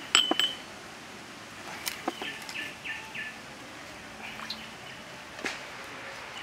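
Birds calling in a run of short, high chirps, with a few sharp pops and crackles from a smoking wood fire, the loudest near the start.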